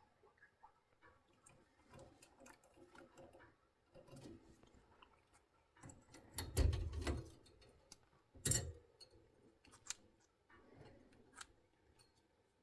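A pet bird climbing about a metal cage whose bars are wrapped against noise, with scattered light clicks and taps from its claws and beak. There are two louder dull knocks, one about six and a half seconds in and another about two seconds later.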